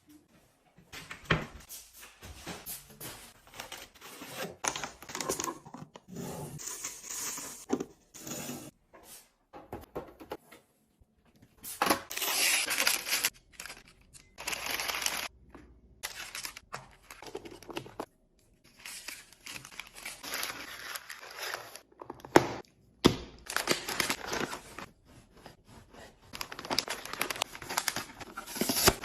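Packaging tearing and crinkling in repeated bursts, with short pauses and a few sharp knocks between them.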